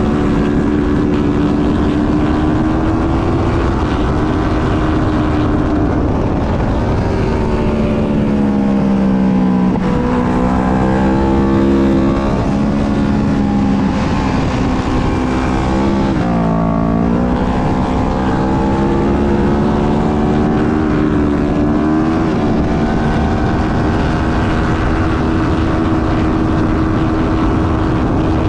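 Twin-cylinder racing motorcycle engine at race pace, heard onboard with wind rushing past. The revs rise and fall through gear changes, dip sharply and climb again about two-thirds in, then hold steady high revs near the end.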